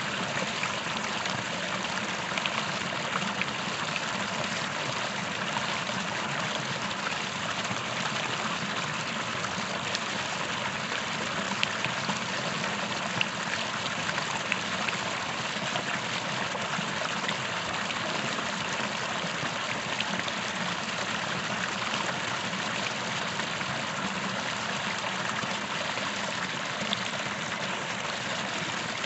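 A small creek running over rocks, a steady rush of flowing water with little splashes and trickles.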